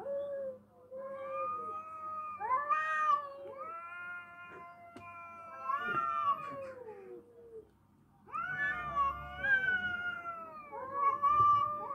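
Two cats yowling at each other in a fight standoff: long, drawn-out wails that waver up and down in pitch and often overlap, with a short break about eight seconds in.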